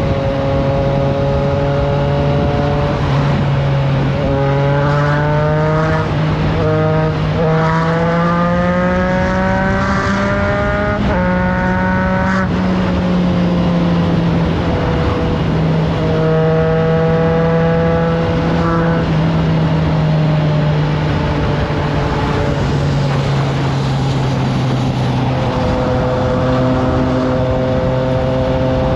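Triumph Trident 660's inline-three engine through a FireTong exhaust, under way on the road. It pulls up through the revs with two brief shift breaks about four and seven seconds in, then holds a steady cruise, easing off a little past the middle. Wind noise is on the microphone throughout.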